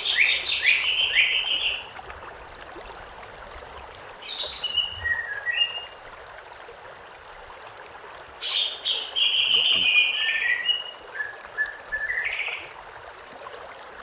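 A songbird singing in three separate phrases of quick, sliding chirps and trills over the steady rush of a flowing river.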